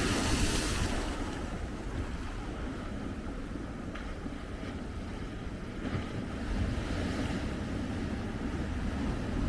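Ocean surf breaking and washing ashore, with wind buffeting the microphone. A hissing wash of water fades about a second in, and the surf builds again near the end.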